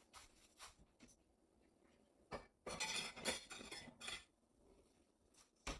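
Kitchenware being handled: a knock a couple of seconds in, then a second or so of clinking and clattering, and another sharp knock near the end.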